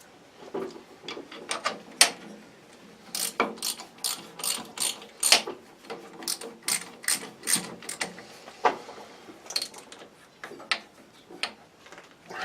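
Irregular sharp metallic clicks and knocks, a few a second, from hand tools working on fasteners as parts of a surface grinder are tightened up.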